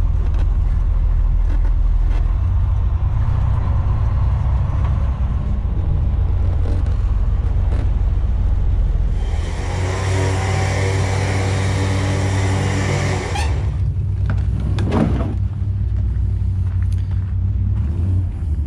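Truck engine and road noise heard from inside the cab while driving, a steady low rumble. It gets louder, with a rushing drone, for about four seconds midway.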